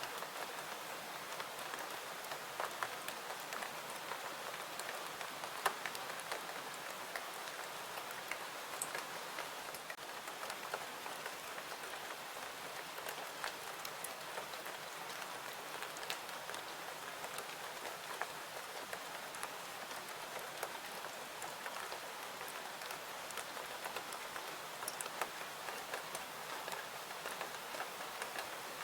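Steady rain falling, with scattered small sharp pops and ticks of a crackling wood fire.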